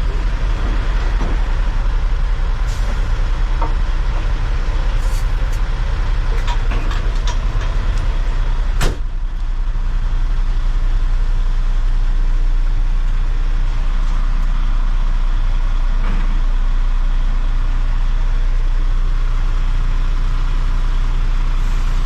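Heavy diesel dump truck's engine running steadily while driving, heard from inside the cab with a constant low drone. Scattered clicks and rattles come in the first half, and a sharp bang sounds about nine seconds in.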